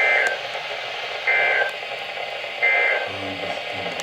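NOAA Weather Radio EAS end-of-message signal: three short bursts of two-tone SAME digital data, about 1.3 seconds apart, over steady radio static hiss. The bursts mark the end of the broadcast flood warning.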